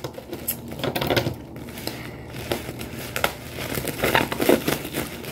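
Black plastic bubble wrap being crinkled and pulled open by hand: irregular crackling and rustling of the plastic.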